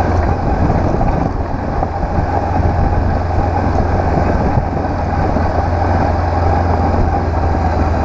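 Honda CB500X's parallel-twin engine running steadily under way, with a strong low drone.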